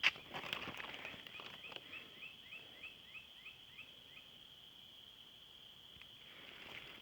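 A bird sings a run of about ten short rising notes, roughly three a second, over a steady high hiss. A sharp click comes right at the start.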